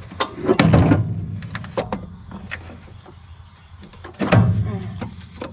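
Metal scraping and clunking as a tractor-to-baler PTO drive shaft is handled and slid into place. There are two longer scrapes, about half a second in and about four seconds in, with a few small clicks between them. Crickets chirp steadily underneath.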